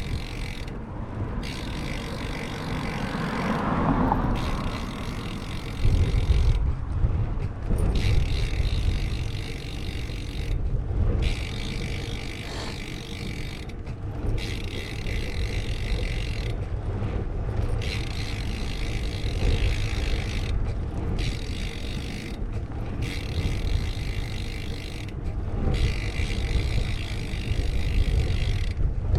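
Wind rushing over a GoPro's microphone and tyre noise while riding a bicycle on a road, with a low rumble that grows heavier a few seconds in. A vehicle passes about three to four seconds in.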